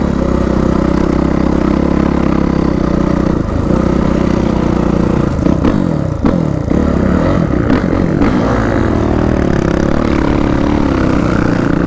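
Dirt bike engine running hard under way, its pitch swinging up and down for a few seconds around the middle as the throttle is worked.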